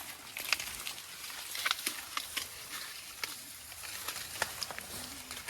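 Dry corn stalks and leaves rustling and crackling, with irregular sharp snaps and clicks, during a corn harvest by hand.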